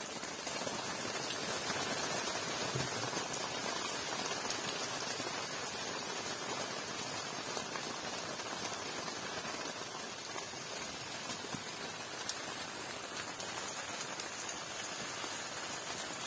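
Rain falling steadily on the fabric of an inflatable tent, heard from inside as a dense, even patter of many small drops.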